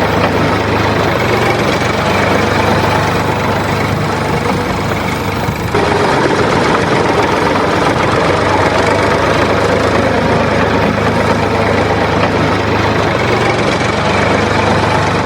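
Small engine of a homemade mini tractor pumpset running steadily at idle, with a dense mechanical clatter. The sound shifts abruptly about six seconds in.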